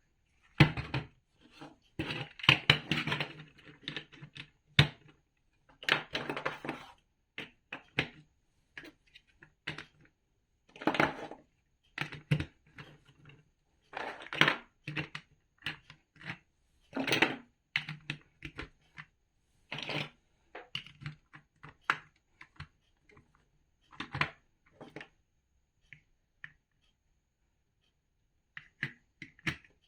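Large plastic building bricks being handled and pressed together: irregular clicks, taps and clattering rustles come in short bunches with pauses between them.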